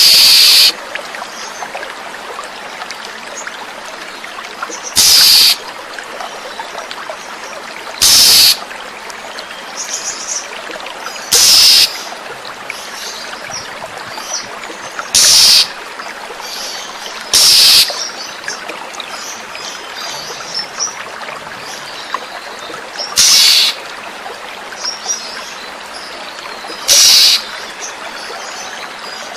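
Oriental magpie-robin (kacer) giving eight short, loud, harsh calls a few seconds apart, with softer chirps between them, over steadily flowing water.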